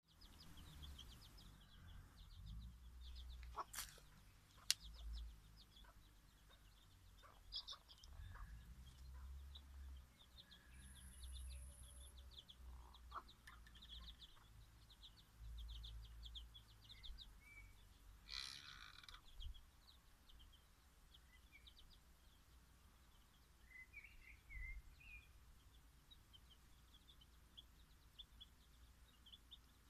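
Faint high chirping of small birds in quick repeated trains, over a low rumble, with two sharp clicks a few seconds in and a short rustling burst past the middle.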